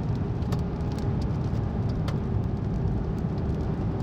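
Car driving, a steady low road and engine rumble heard from inside the cabin, with a few sharp ticks scattered through it.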